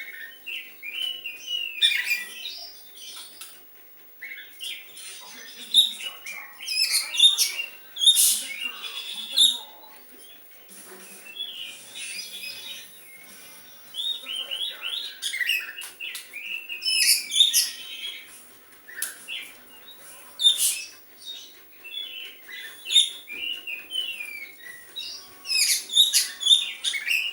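Oriental magpie-robin singing in quick, varied phrases of high chirps and whistled glides with short pauses between, in the style of a sooty-headed bulbul's song.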